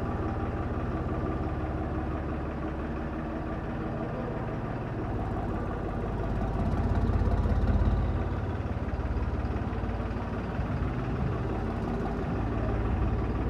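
Tractor engine running steadily at idle, swelling briefly louder about halfway through before settling back.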